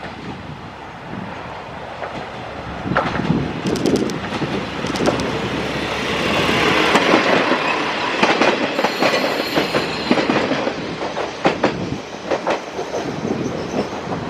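Kiro 47 diesel railcar passing, its wheels clacking over rail joints in a run of sharp clicks; the noise builds to its loudest about seven seconds in and clatters on as the cars go by.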